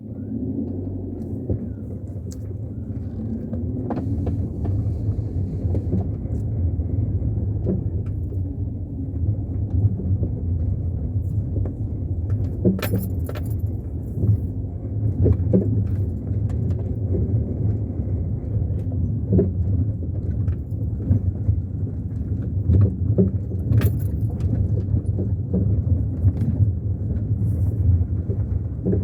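Car driving on a rough unpaved farm road: a steady low road-and-engine rumble with loose things rattling and knocking now and then.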